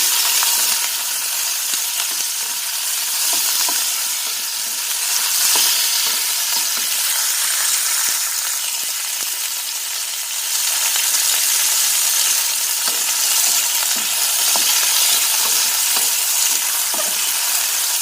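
Chicken pieces sizzling in hot oil with garlic, onion and ginger, with occasional scrapes and clinks of a spatula stirring in the pan.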